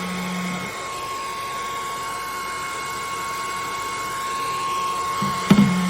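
Revlon RVDR5823 2000W hair dryer running steadily, its fan motor giving a steady whine over the rush of air. A sharp click comes about five and a half seconds in.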